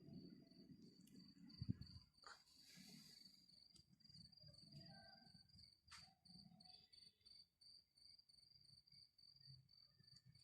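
A cricket chirping in a fast, steady pulsed trill, faint, with a sharp knock a couple of seconds in and a few softer clicks.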